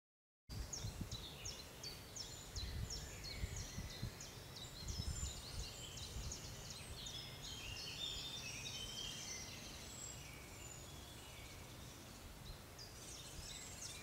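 Birds calling: a fast, regular run of short, high, falling notes, about three a second, through the first few seconds, then a jumble of varied chirps. A low rumble sits underneath, strongest in the first half.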